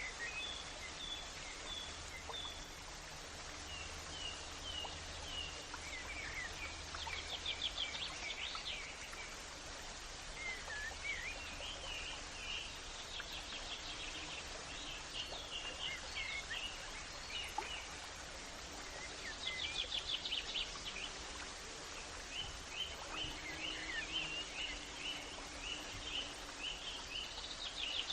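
Birds singing outdoors: repeated short chirps and quick rapid trills, over a steady background hiss.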